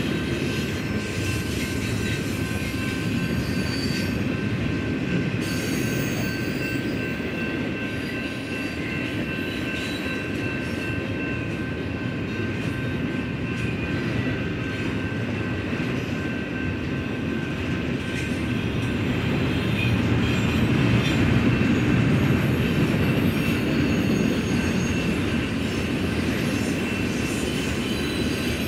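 Double-stack intermodal freight cars rolling past: a steady rumble of steel wheels on rail, with a thin steady high squeal of wheels over it. It grows louder about two-thirds of the way through.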